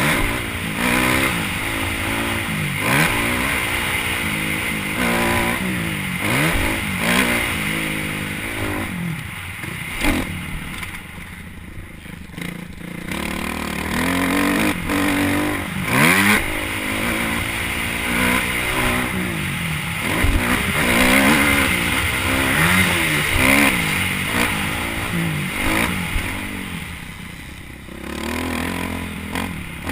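Motocross dirt bike engine revving hard and dropping back again and again as the throttle is worked around the track, with wind rush and clatter. It goes quieter twice, about a third of the way in and near the end, where the throttle is shut off.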